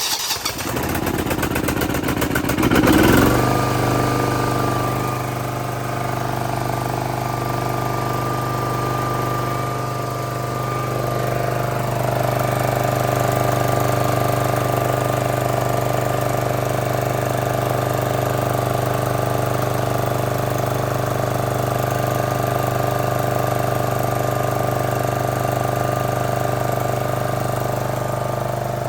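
John Deere SRX95's 12.5 hp Kawasaki engine cranking on the electric starter with the choke on for about three seconds, then catching and running steadily on its own, with no starting spray.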